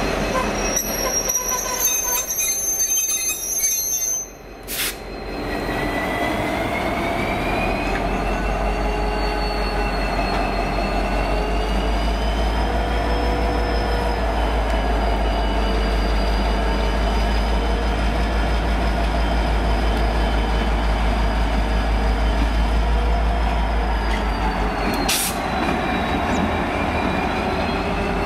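V/Line N class diesel-electric locomotives and passenger carriages moving slowly through the yard. The wheels squeal in long, wavering high tones over the low, steady rumble of a passing locomotive's EMD V12 two-stroke diesel.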